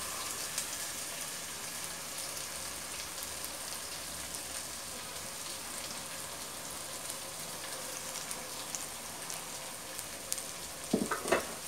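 Onion and ginger-garlic masala sizzling steadily in hot oil in a steel pressure cooker, a continuous hiss with faint crackles, while grated carrot is tipped in.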